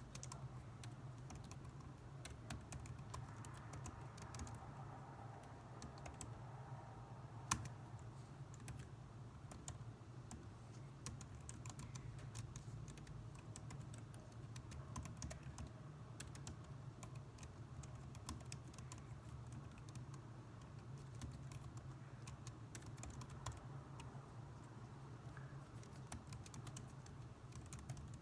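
Typing on a computer keyboard: a continuous, irregular patter of quiet keystrokes over a steady low hum, with one sharper, louder key click about seven seconds in.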